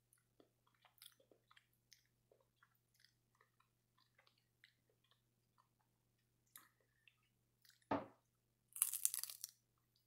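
Close-miked mouth sounds of crispy seaweed being eaten: soft chewing clicks throughout, a thump about eight seconds in, then a loud crunch as a piece is bitten near the end. A faint steady hum sits underneath.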